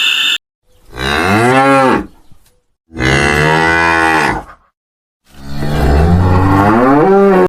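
Cow mooing: three long moos, each a second and a half to two seconds, with short silent gaps between them. The pitch of each moo bends up and back down.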